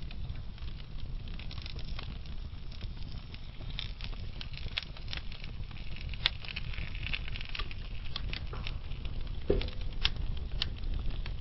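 Wood fire burning in a fireplace: logs crackling with irregular sharp pops over a steady low rumble, one louder pop near the end.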